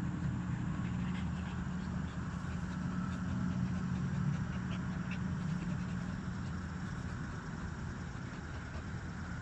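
A steady low mechanical hum, like a motor or engine running, with a few faint ticks over it.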